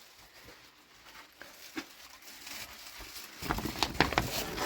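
Footsteps crunching through snow, a dense run of crunching that starts about three and a half seconds in, after a few faint scattered clicks.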